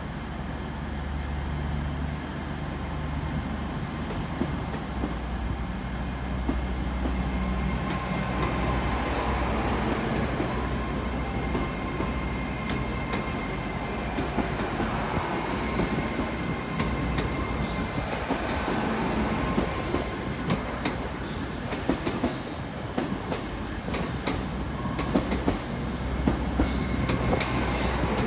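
Hitachi Class 802 bi-mode train running along the platform on its underfloor diesel engines, a steady low drone that slowly grows louder as the carriages pass. In the second half, sharp clicks come from the wheels over rail joints.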